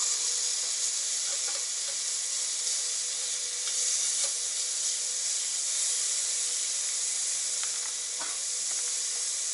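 Liver and garlic chives sizzling steadily in a hot pan as they stir-fry, with a few light taps of chopsticks in the pan.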